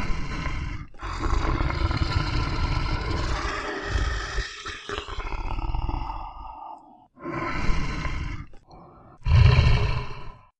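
A big cat roaring and growling: a short roar, a long drawn-out one of about six seconds, then two shorter roars.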